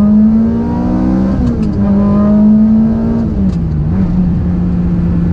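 Ferrari 360 Modena's V8, through its Larini exhaust, heard from inside the cabin under acceleration. The revs climb, drop with an upshift about a second and a half in, climb again, drop with another shift a little past three seconds, then hold steady.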